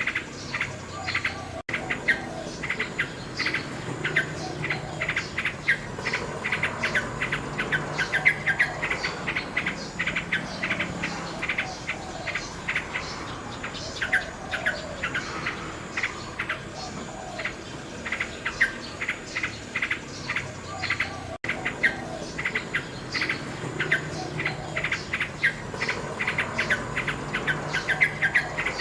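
Nightingale singing in rapid trains of short, repeated notes, dense and continuous. The sound drops out for an instant twice.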